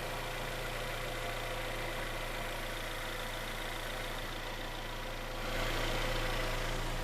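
Freshly rebuilt Hyundai/Kia G4KD 2.0-litre four-cylinder petrol engine idling steadily, its new parts not yet run in. It grows slightly louder about five and a half seconds in.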